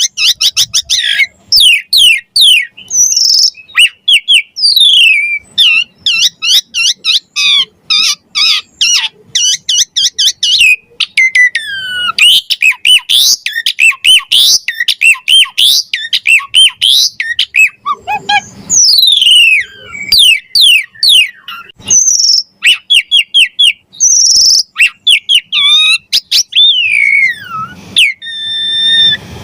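Asian pied starling singing a long, rapid, varied song of whistles, up- and down-sweeping notes and chatter, with no pauses. Harsh rasping notes break in about two-thirds of the way through and again near the end.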